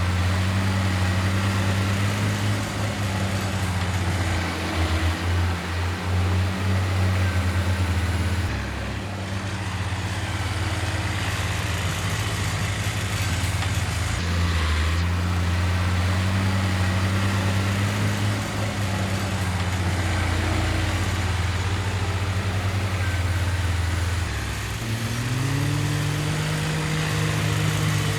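Heavy diesel engine of earthmoving machinery running with a steady low drone that drops in pitch for a while and then picks up again, and revs up about 25 seconds in.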